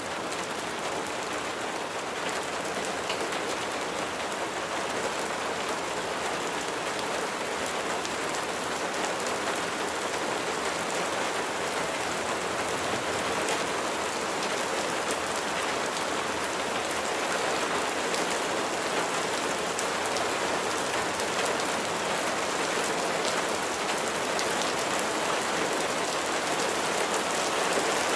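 Steady rain falling and pattering on a surface, with many small drop ticks, growing slightly heavier toward the end.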